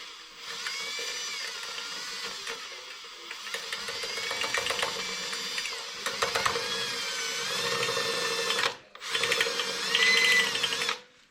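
Electric drill running with its bit cutting into steel: a steady motor hum under a wavering squeal and chatter from the bit. It stops briefly near the end, then starts again with a louder squeal.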